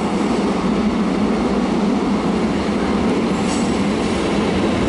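Suburban electric train running into the station, a steady rumble of wheels on rails.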